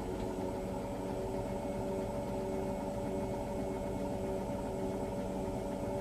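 Hotpoint washing machine running with the drum turning, its motor giving a steady hum of several held tones over a low rumble.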